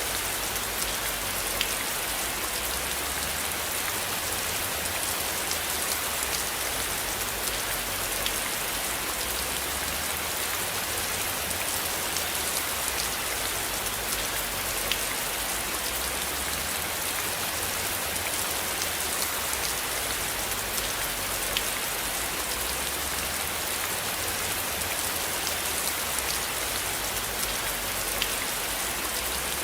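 Steady rain falling, an even hiss dotted with the ticks of single drops, with a low rumble underneath that swells and fades every few seconds.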